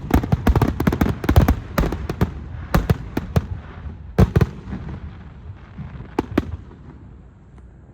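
Fireworks going off in rapid succession, thinning to a few scattered bangs after about two and a half seconds and dying away near the end.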